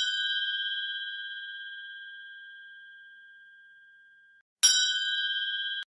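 A bell-like chime rings and slowly fades away over about four seconds. It is then struck again and cut off abruptly about a second later.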